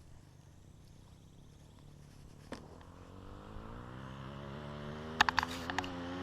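Dirt bike engine approaching, faint at first and growing steadily louder from about halfway through, its pitch edging up a little; a few sharp clicks about five seconds in.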